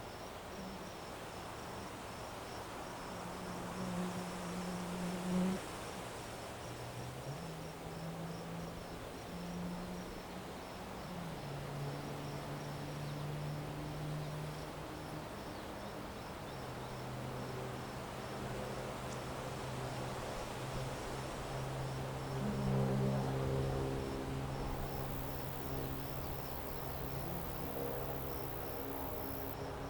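Crickets chirping in an even, steady rhythm through a low drone that changes pitch in steps. A high hiss joins near the end and cuts off suddenly.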